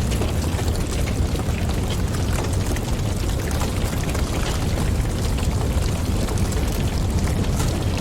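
Fireplace fire crackling, many small irregular pops over a steady low rumble of the flames.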